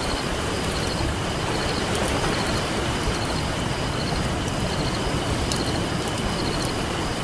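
Steady rush of ocean surf with a campfire crackling, sharp pops scattered through it. A faint high chirp repeats at an even pace.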